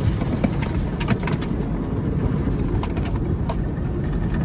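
Automatic car wash working over a car, heard from inside the cabin: a steady low rumble of water spray on the body with scattered sharp taps and splatters.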